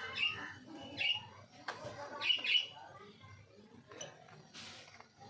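Small parrots, lovebirds and a ring-necked parakeet, squabbling: about four short, high calls in the first three seconds, a few sharp clicks, and a brief rustle a little past four seconds.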